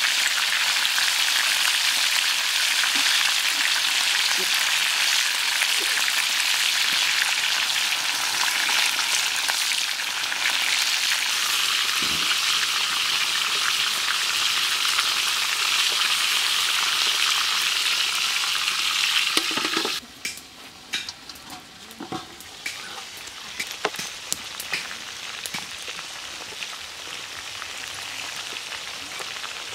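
Whole chicken sizzling loudly in a hot steel wok. About two-thirds of the way through, the sizzle drops suddenly to a quieter crackle with scattered pops.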